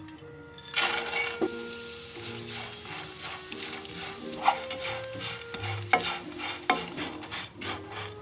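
Dried baby anchovies (chirimen jako) sizzling in hot oil in a nonstick frying pan, stirred and scraped around with a wooden spoon as they fry crisp. The sizzle starts suddenly about a second in, when the fish go into the oil, with many short scraping strokes.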